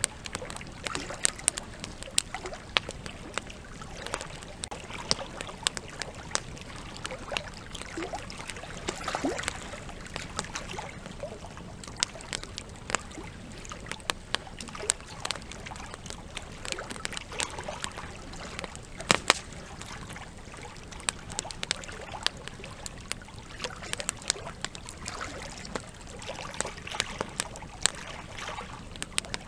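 Wood fire crackling, with frequent irregular sharp pops and snaps, a few louder ones, over a steady rush of flowing river water.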